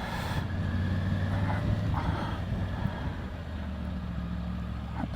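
Motorcycle engine running steadily while riding, heard from the rider's own bike, with a light rush of wind and road noise.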